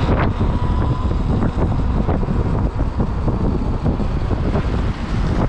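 Heavy wind buffeting the microphone at riding speed on an electric dirt bike, a dense steady rumble, with scattered small knocks and ticks over it.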